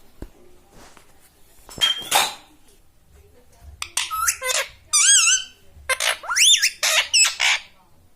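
Pet parrot squawking and whistling: a harsh call about two seconds in, then a run of squawks from about four seconds with wavering and rising whistled notes.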